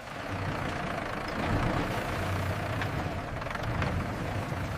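Steady mechanical rumble with a low hum underneath, like a running engine or machinery.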